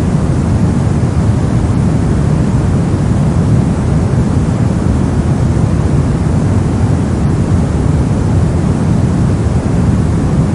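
Steady, unchanging soft noise, a white-noise-style sleep sound weighted toward the low end, so it sounds deep and rushing rather than hissy.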